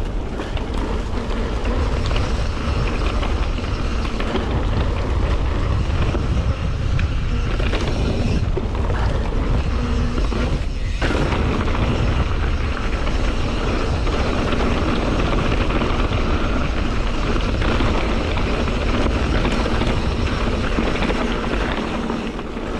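Wind rumbling on the microphone over the steady rolling noise of a mountain bike's tyres on a dirt trail, with small clicks and rattles from the bike.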